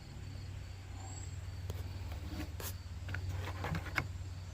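A few light clicks and taps over a steady low hum, as multimeter test probes are put to a car battery's terminals.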